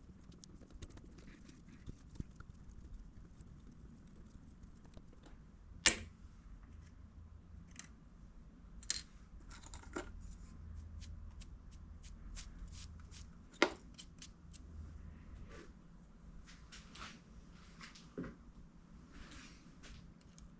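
Scattered light clicks and knocks of small parts and hand tools being handled at a workbench, with two sharp, louder knocks about six and fourteen seconds in.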